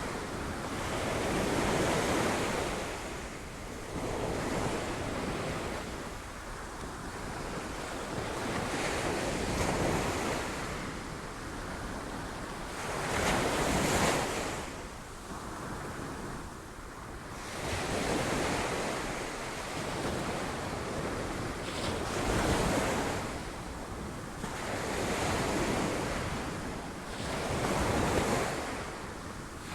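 Sea waves breaking on rocks, swelling and receding in repeated surges every few seconds, with wind rushing over the microphone.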